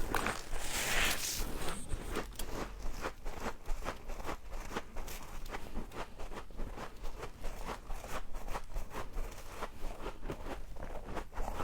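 Frost being bitten and chewed: a close, dense run of crisp crunches and crackles, with a brief hiss about a second in.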